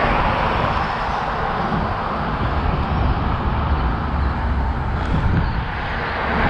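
Steady wind and rolling noise on the microphone of a camera carried on a moving bicycle, with a low rumble that swells and fades.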